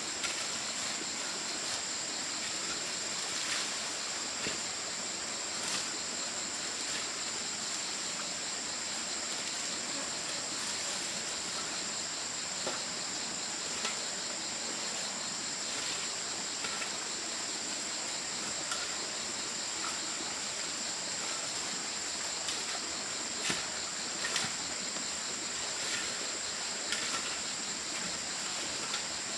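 Steady high-pitched chorus of insects, with a few faint knocks scattered through it.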